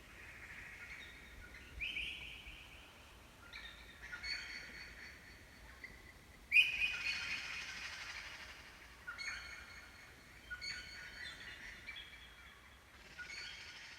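A bird calling over and over, a high-pitched phrase every couple of seconds, each starting suddenly and fading away; the loudest comes about six and a half seconds in.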